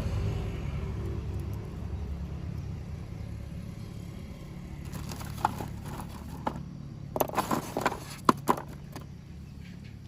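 Model train's electric motor humming as it runs, fading away, with a cluster of sharp clicks and knocks from about five to nine seconds in.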